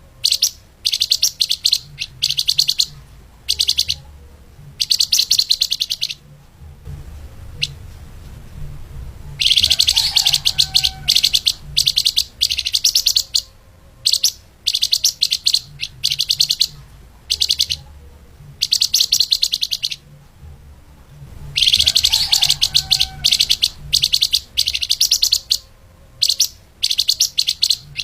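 Flamboyan (lemahan) songbird singing a fast, tightly packed high-pitched chatter in repeated bursts of one to a few seconds with short pauses between them. A low hum runs underneath.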